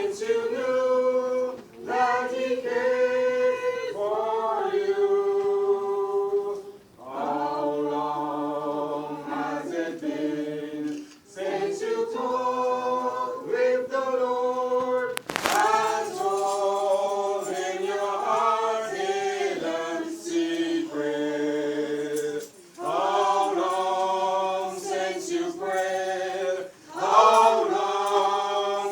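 Church choir singing in harmony, in held phrases of a few seconds with brief breaks between them. A single sharp click sounds about halfway through.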